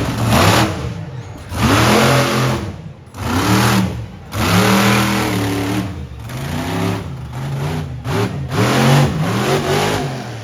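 Monster truck engine revving hard over and over, its pitch climbing and dropping about seven times, each throttle surge bringing a loud rushing blast of exhaust noise.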